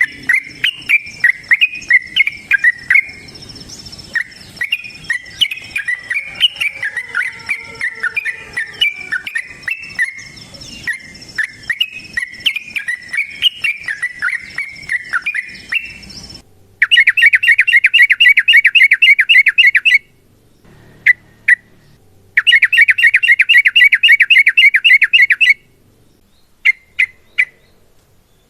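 Yellow-vented bulbul (trucukan) singing: a long run of loud, jumbled chattering notes, with a steady high whine behind it. About 16 seconds in this switches to rapid rolling trills, two long trills of about three seconds each separated by short bursts of notes. These are the fast 'ropel' trills of a bird in full song, used as a lure to draw other bulbuls.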